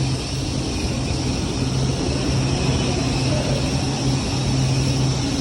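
Lao–China Railway train running at a steady pace, with a constant rumble, a low hum and a faint high whine that hold unchanged.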